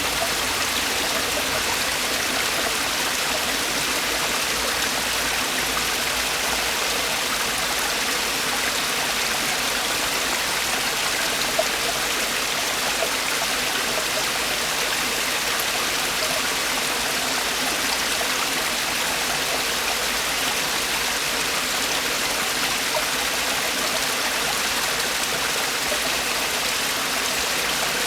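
Mountain stream water falling and splashing over rocks in a steady, unbroken rush.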